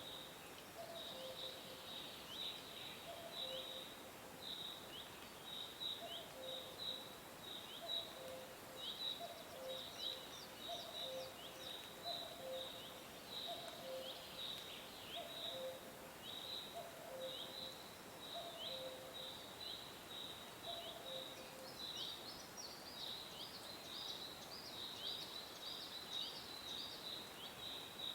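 Small birds chirping continuously: short, high chirps several a second, thickening with extra higher chirps in the last quarter. A low two-note call repeats roughly every second and a half until about three quarters through, over a steady background hiss.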